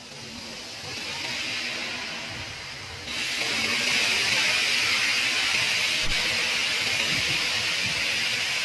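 Steady hissing noise with no clear calls in it, jumping louder abruptly about three seconds in.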